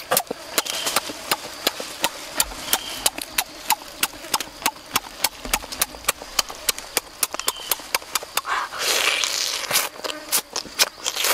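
Close-up eating sounds: wet chewing and lip-smacking on grilled chicken wing and shredded green papaya salad, a quick run of mouth clicks about four a second. A longer slurp comes near the end as papaya strands are sucked in.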